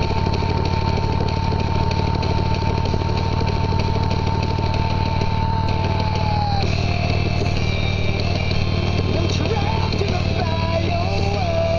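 Steady low vehicle engine rumble with a music track over it. A long held high note bends down and stops about six and a half seconds in, and wavering sung notes come in near the end.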